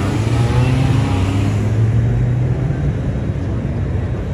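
Car engine running with a low, steady note that eases off about two and a half seconds in as the car moves off.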